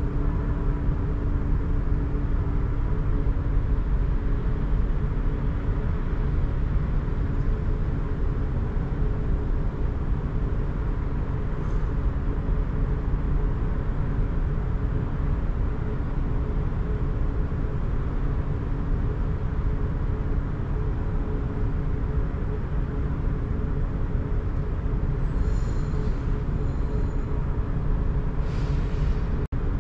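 Rhaetian Railway metre-gauge electric train running steadily, heard from the cab: a continuous rumble of wheels on rail with a few steady humming tones. Faint high-pitched squealing comes in briefly near the end.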